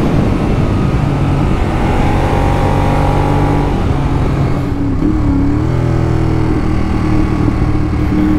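Ducati Monster 821's L-twin engine running under way at road speed. Its note changes and drops a little about halfway through, then holds steady.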